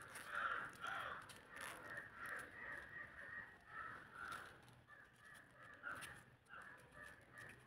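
Birds calling faintly in the background: short, harsh calls repeated one or two times a second.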